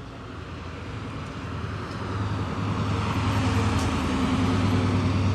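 A car engine running close by, getting louder over the first two or three seconds, then holding a steady low hum.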